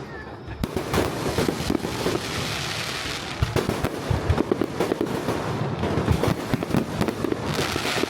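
Fireworks display: a dense, rapid run of bangs and crackles, with many shells going off in quick succession, starting about half a second in.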